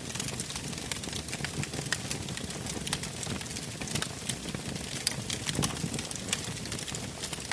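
Wood campfire burning, crackling with many small irregular pops over a steady low rumble of flames.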